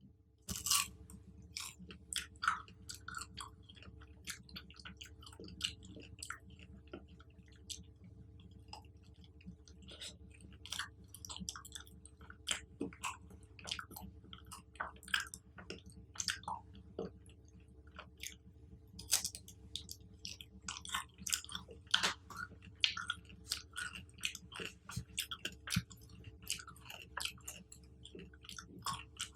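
Close-miked chewing of chocolate-covered fruit: a sharp bite about half a second in, then steady chewing full of small crackling clicks.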